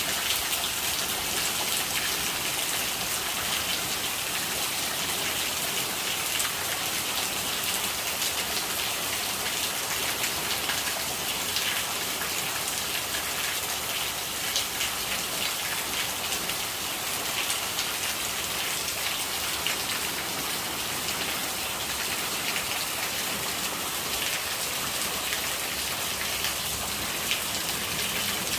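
Steady rainfall: an even hiss with many small drop hits throughout.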